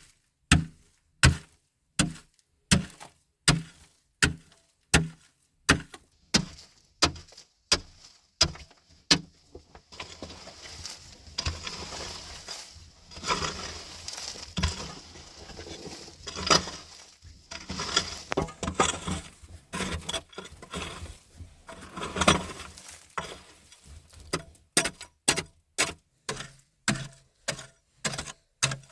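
Chopping: repeated sharp strikes at a steady pace of about three every two seconds, then a long stretch of irregular rustling and cracking, then the strikes start again at a faster pace of about two a second.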